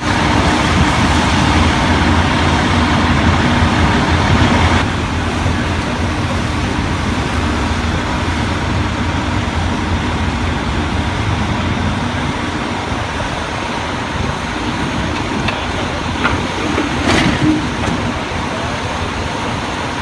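A heavy truck engine running steadily, with a brief sharp knock about 17 seconds in.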